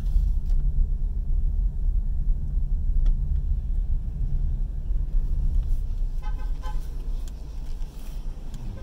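Car driving slowly, heard from inside the cabin as a steady low engine and road rumble, with a short horn-like toot about six seconds in.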